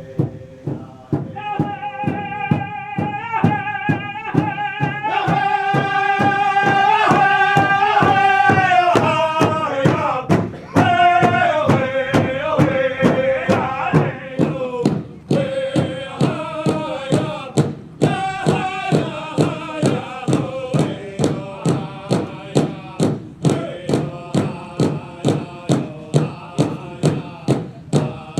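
Powwow drum and singers: a large drum beaten in a steady even beat while male voices chant, each phrase held high and then sliding down in pitch before starting again.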